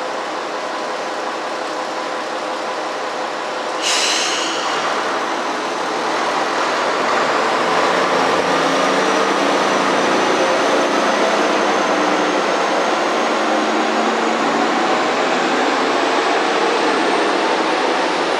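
Train at the station, with its steady running noise. About four seconds in comes a sudden brief hiss. Then the noise grows louder, and a faint high whine rises slowly in pitch to the end.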